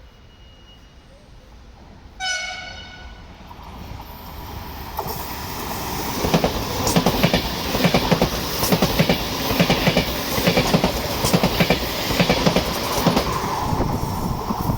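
Frecciarossa ETR 700 high-speed electric train sounding a short horn blast about two seconds in, then approaching and passing at speed. Its wheels clatter rhythmically over the rail joints, growing louder from about six seconds on.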